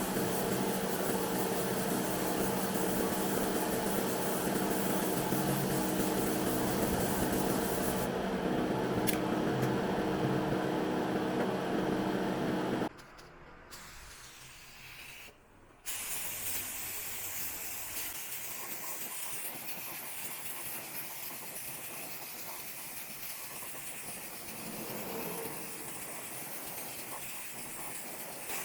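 Paint spraying hissing steadily, with a low steady hum beneath. It cuts off about 13 seconds in, and after a short lull a softer steady hiss resumes.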